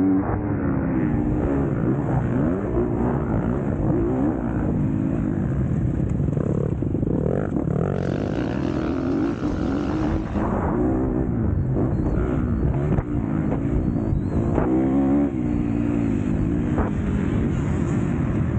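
MX2-class motocross bike engine racing, its pitch rising and falling repeatedly as the throttle is opened and shut and the gears change.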